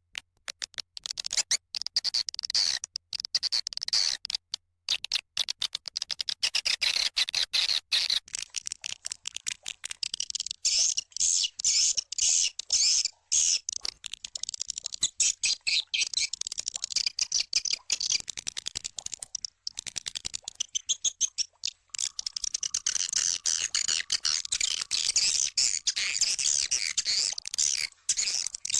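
Swiftlets twittering: a dense run of rapid chirps and clicks. This is a swiftlet calling sound, the kind played to lure swiftlets into a nesting house.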